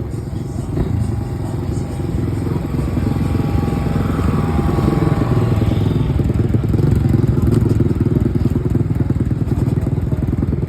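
Motorcycle engine running close by, a fast, even firing that grows louder over the first few seconds and then holds steady.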